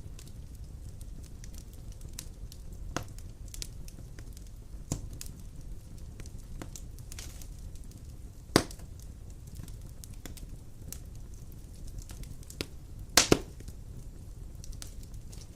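Wood fire burning in a stone fireplace: a steady low rumble of the flames with scattered crackles and pops, the loudest pop a little past eight seconds and a quick pair of sharp snaps about thirteen seconds in.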